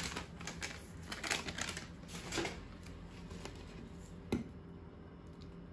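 Hands handling plastic storage containers and label stickers: a run of small clicks and rustles for the first couple of seconds, then a single sharper click about four seconds in.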